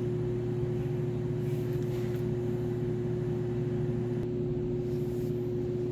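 A steady machine hum at a constant pitch, with no change in speed.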